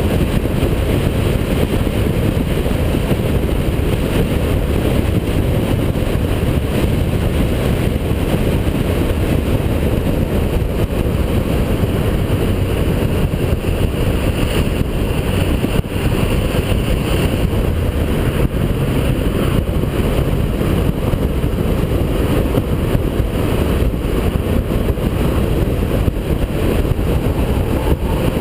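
Holden VP Commodore V6 race car being driven at speed: loud, steady engine and road noise, heaviest in the low end, with no let-up.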